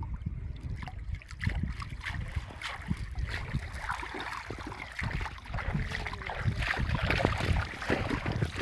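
Irregular water splashing and sloshing with scattered knocks, over a low buffeting of wind on the microphone.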